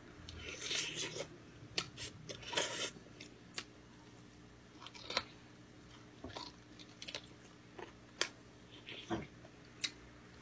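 Close-up eating sounds from a mouthful of gamjatang: chewing and mouth noises, with a handful of sharp clicks scattered through.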